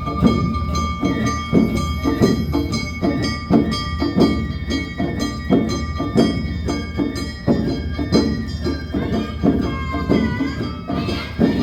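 Live Awa Odori festival band music: drums beating a steady two-beat rhythm about twice a second, with a high flute line held over it.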